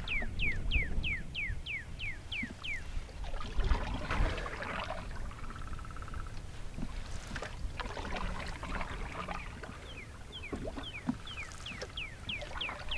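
A bird calls a rapid series of short, falling notes, about four a second, over a low steady rush of wind and water. The series stops about three seconds in and starts again near the end.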